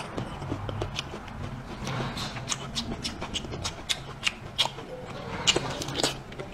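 Close-mic chewing of a soft steamed small pumpkin: a run of short wet mouth clicks and smacks, a few a second, with a fresh bite into the pumpkin near the end.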